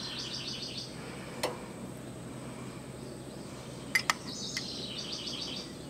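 A bird singing a short, fast trill of repeated high notes, twice: once at the start and again about four seconds in. A few light metallic clinks of a spoon against the dye cup and steel pan, the loudest a quick pair about four seconds in.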